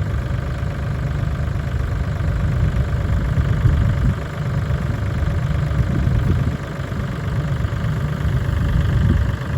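Dump truck's diesel engine running steadily, a low engine sound with no marked revving or change.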